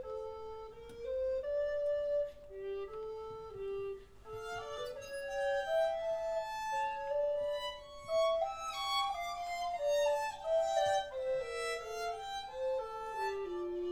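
Instrumental chamber music: two melody lines move stepwise against each other, with a bowed string instrument, likely a violin, prominent.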